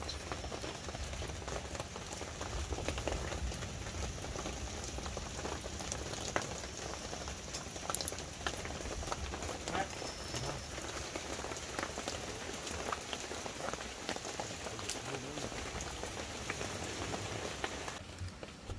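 Rain falling steadily, a dense even hiss with many scattered sharp ticks, the upper part of the hiss dropping away near the end.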